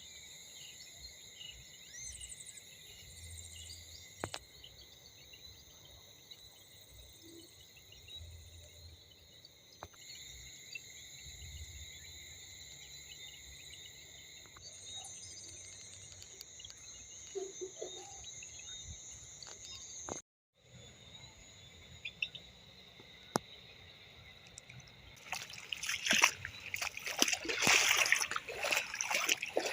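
Evening insect chorus, a steady high-pitched trilling, over faint outdoor background. The sound cuts out for an instant about two-thirds of the way through, and in the last few seconds louder, irregular splashing and rushing water takes over.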